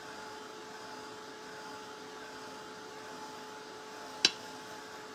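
Handheld hot-air blower running steadily with a steady whine, setting wet paint dots on a metal kettle; one sharp click about four seconds in.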